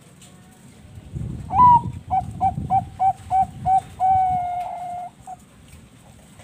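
Bangkok-strain zebra dove (perkutut) singing its phrase: an opening note, a quick run of about seven short clipped notes, then one long held note.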